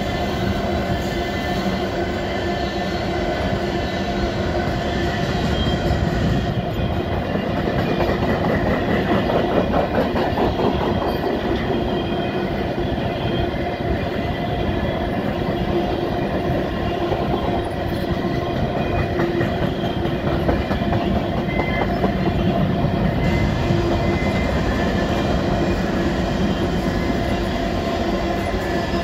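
Loaded covered grain hopper cars of a freight train rolling steadily past a level crossing: a continuous rumble with rhythmic wheel clatter over the rail joints.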